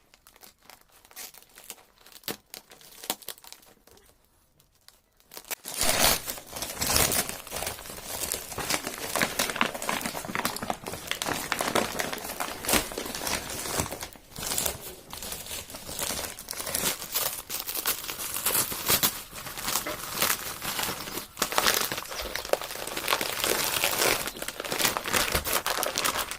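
A parcel's packaging being cut and torn open and handled: sparse faint rustles at first, then from about six seconds in a continuous crinkling and tearing with many sharp crackles.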